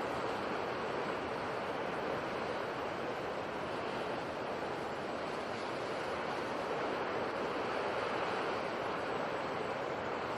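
Sea surf: a steady wash of waves with no distinct breaks or pauses.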